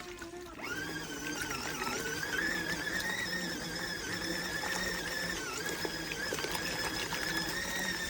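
Portable mini washing machine's small electric motor running with a steady, slightly wavering whine and low hum. It stops briefly at the start, then comes back up to speed.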